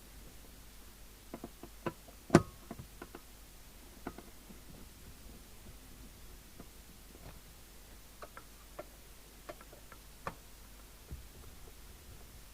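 Scattered small clicks and taps of screws and a screwdriver on a CB radio's case as it is reassembled, with one sharper knock about two seconds in.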